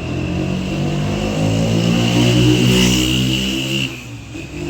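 Car engine accelerating, its pitch and loudness rising for about four seconds, then dropping off suddenly near the end as if the engine lets off.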